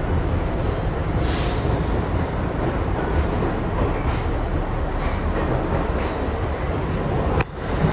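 Kawasaki R62 subway train running along the track with a steady rumble, a short high hiss about a second in.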